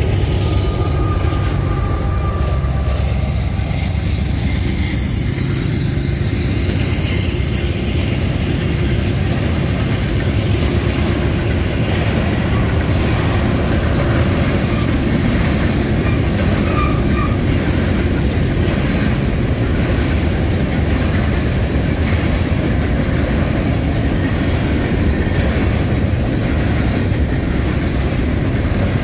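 Freight cars of a long Union Pacific manifest train rolling past close by: a steady, loud rumble of steel wheels on rail with repeated wheel clicks.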